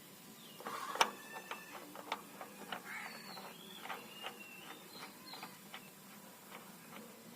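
Faint scattered clicks and clinks of metal parts and tools being handled, the sharpest about a second in, with short high chirps in the background.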